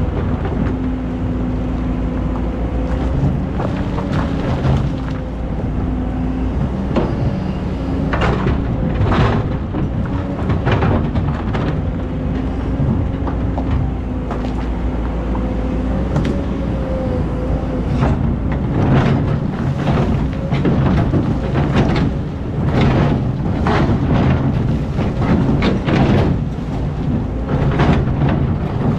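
Excavator diesel engine running steadily, with repeated clanks and scraping from the bucket and arm as it works, the knocks coming more often in the second half.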